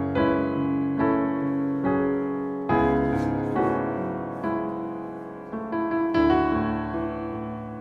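Slow, soft piano music: chords struck roughly once a second, each ringing and fading before the next.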